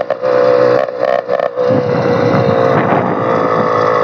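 Small two-stroke engine of a motorized bicycle running on a straight pipe with no muffler, under way at a steady buzz. Its note briefly drops out a few times in the first second and a half, then holds steady.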